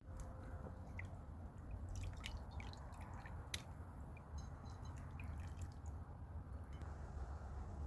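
Open fire crackling faintly, with irregular sharp pops and clicks over a low steady rumble.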